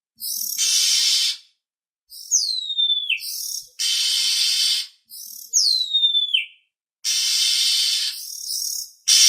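Oriental magpie-robin calls used as a lure: harsh rasping calls about a second long, alternating with two clear whistles that slide steeply downward, each preceded by short chips.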